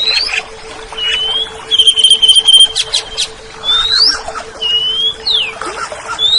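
Oriental magpie-robin (kacer) singing: clear whistled notes sliding up and down, with a fast, even trill about two seconds in followed by a few sharp clicks. A steady low hum runs underneath.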